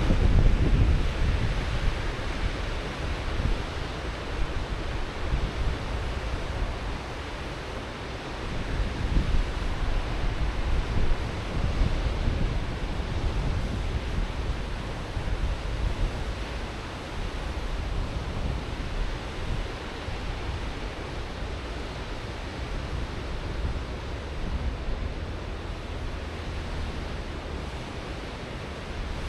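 Ocean waves breaking and washing on a sandy shore, a steady surf that swells and eases every few seconds, loudest at the start, with wind buffeting the microphone.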